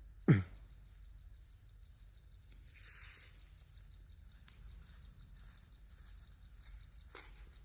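Steady high-pitched insect trill, pulsing several times a second, with one sharp thump just after the start and a faint click near the end.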